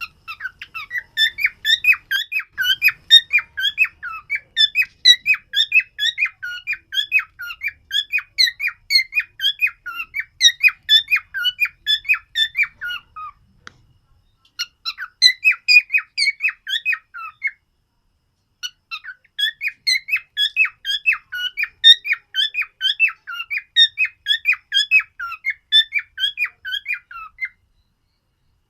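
Cockatiel singing: a fast run of short chirping notes, several a second. It breaks off briefly twice about halfway through and stops shortly before the end.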